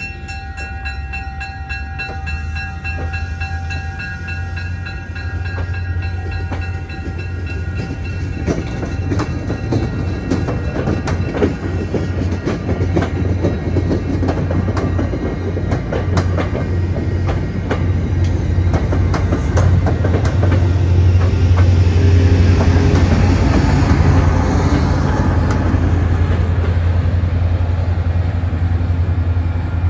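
MBTA commuter rail train pulling out past the platform: coach wheels click over the rail joints over a steady low diesel drone. The drone grows louder over the second half as the diesel locomotive pushing at the rear draws near.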